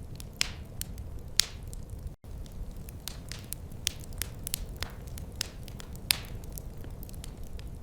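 Wood fire crackling in a fireplace: irregular sharp pops and snaps over a steady low rumble of the burning fire. The sound drops out for an instant a little over two seconds in.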